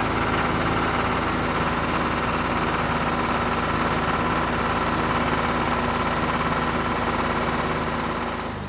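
An engine running steadily at idle with a faint high whine, fading out near the end.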